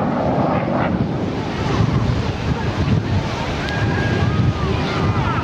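Wind buffeting the microphone, a loud steady low rumble, with a few faint high gliding tones in the second half.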